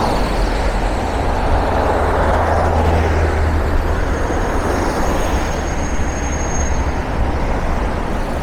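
Busy city street traffic: cars and buses passing in a steady rumble of engines and tyres. A thin high whine rises out of it about halfway through and lasts some three seconds.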